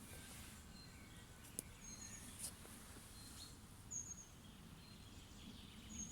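Faint bird chirps: short, high, thin calls repeated every second or two, over a low steady background rumble.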